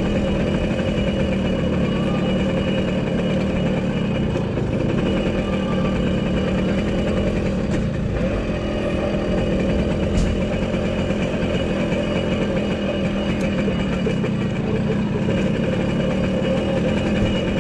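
A car engine idling steadily, running on evenly without revving.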